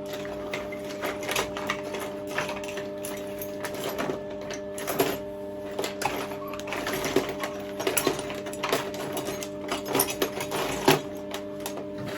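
Steady mains hum, typical of a stick welder's transformer left switched on, under irregular clicks and light clatter of small metal parts being handled.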